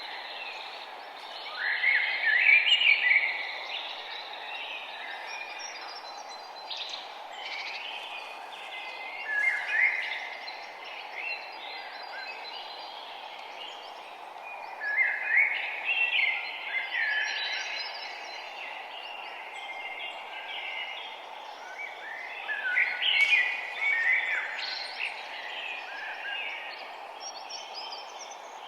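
Songbirds singing, with a loud song phrase coming about every six to seven seconds and quieter calls between, over a steady background noise.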